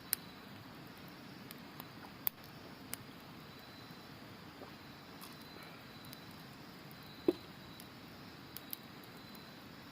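Campfire crackling, with sharp pops every second or two, the loudest about seven seconds in, over a steady rush of river water and a thin, high, unbroken trill of autumn insects.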